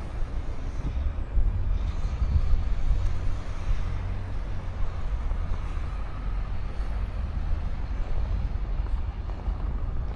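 Steady low rumble of road traffic with motor vehicles running, with no clear single event.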